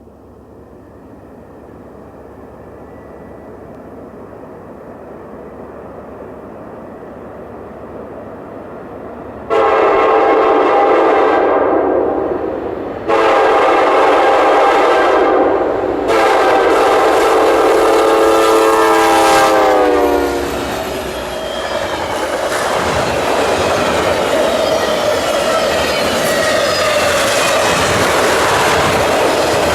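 Alaska Railroad passenger train led by EMD SD70MAC diesel locomotives, approaching with a rumble that grows steadily louder. About ten seconds in, the locomotive's air horn sounds three long blasts, the last dropping in pitch as the locomotive passes. The passing cars follow with steady wheel noise on the rails.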